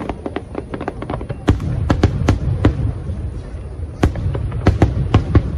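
Fireworks display: an irregular run of sharp bangs and crackles over a continuous low rumble.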